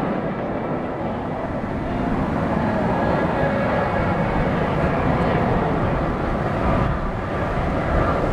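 Aermacchi MB-339 jet trainer flying aerobatics. Its single turbojet makes a steady, continuous rushing jet noise.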